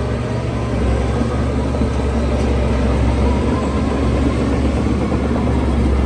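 Heavy diesel earthmoving machine running steadily with a deep engine rumble and a faint wavering whine above it.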